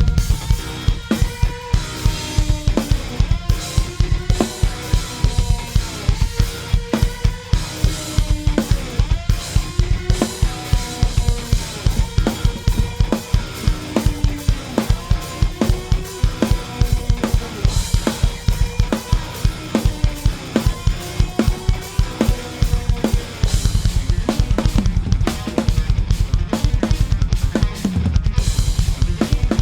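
Drum kit played fast and hard in a progressive-metal groove, with dense bass drum strokes, snare hits and cymbals over instrumental guitar lines; the kick runs almost without a break in the later part.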